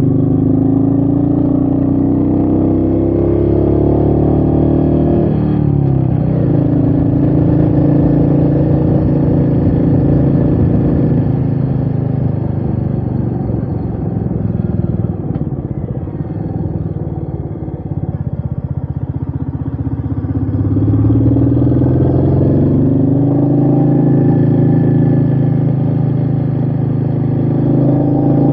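Royal Enfield Meteor 350's single-cylinder engine running under way, its pitch rising with the revs and dropping sharply at gear changes near the start and about five seconds in. Through the middle the revs fall away with a rougher, uneven beat as the throttle eases off, then climb steadily again in the last third as it accelerates.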